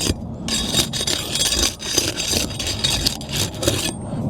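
Asphalt roof shingles being lifted and flexed, crackling and scraping as their sealant strips pull loose; the seals are not holding tightly.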